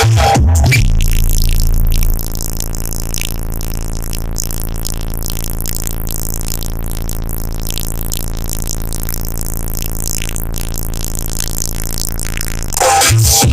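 Instrumental stretch of a rap song with heavy synth bass, played through a car audio system of four Resilient Sounds 18-inch subwoofers. The bass hits harder for the first two seconds, drops back, and comes in hard again near the end.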